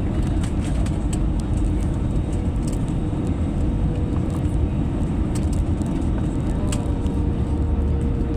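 Steady low rumble inside the cabin of an Airbus A320-200 airliner, with a faint steady hum tone and a few light rattling ticks.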